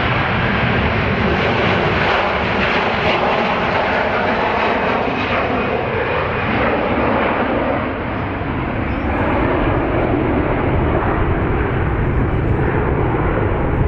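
Loud, steady engine noise of a fixed-wing aircraft, dipping slightly about eight seconds in.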